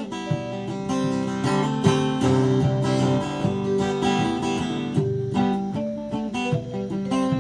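Acoustic guitar strumming an instrumental break between verses of a song.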